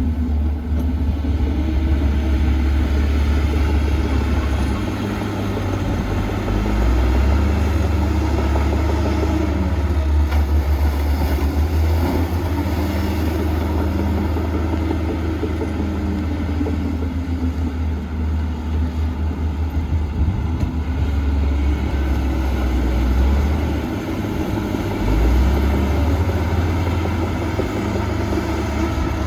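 Heavy diesel engine of earthmoving machinery running under load, a deep, steady rumble whose pitch rises and falls slowly as the engine speed changes.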